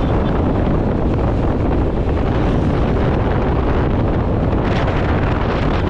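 Wind rushing over the microphone of a moving motorcycle, a steady loud rumble with road and engine noise underneath.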